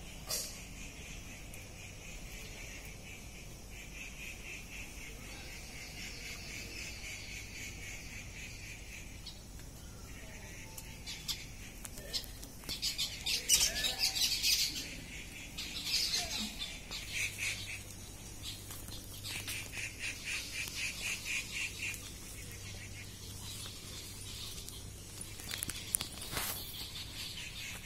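Birds calling outdoors: long, rapid, high trills, with a run of louder, sharper chirps about halfway through.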